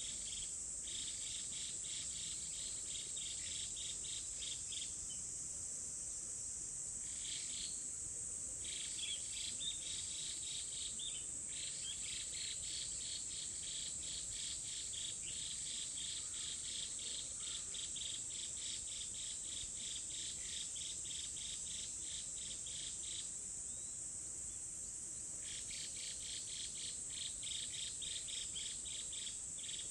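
Insects calling: a steady high-pitched buzz with a second, rapidly pulsing chirp over it that stops and restarts a few times.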